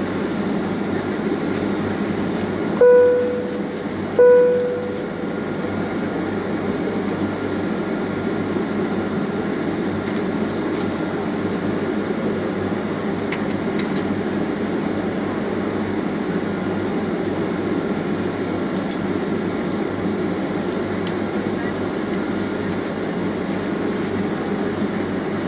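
Steady hum inside a Boeing 767 cabin on the ground before takeoff: the engines idle under the air-conditioning noise. Near the start, two identical chime dings sound about a second and a half apart, each fading out over about a second.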